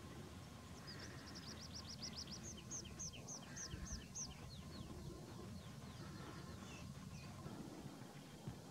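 A bird singing a fast run of short, high, down-slurred notes. It starts about a second in, lasts about three seconds and shifts to a lower series partway through, and a few faint notes follow later over a low background rumble.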